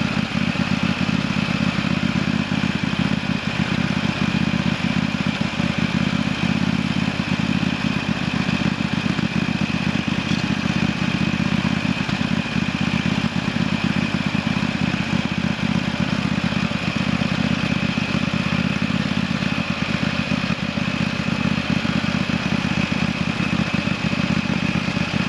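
Small engine of the machine towing a drag leveler over top-dressed lawn, running steadily at an even speed.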